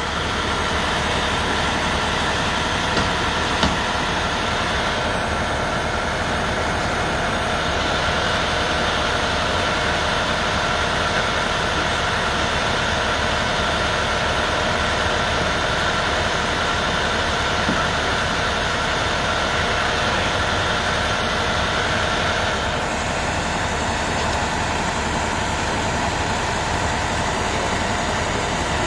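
Heavy truck engine idling steadily, a constant drone with a low hum.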